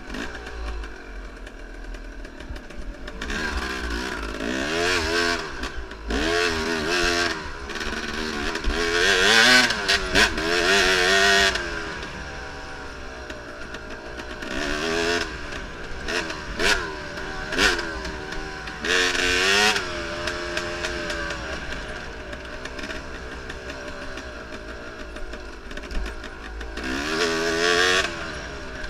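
Enduro motorcycle engine heard from on board, revving up and down again and again as the throttle is opened and closed, with several loud surges between quieter stretches.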